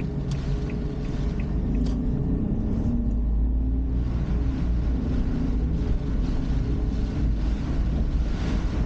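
Car engine and road noise picked up by a dashboard camera, a steady low rumble with the engine's hum shifting slightly in pitch. Light regular ticks sound about twice a second during the first two seconds.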